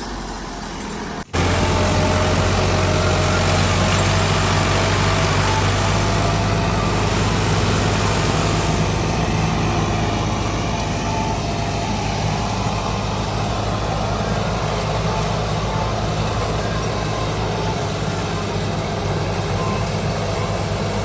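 Ford tractor's diesel engine running steadily, after a brief break about a second in.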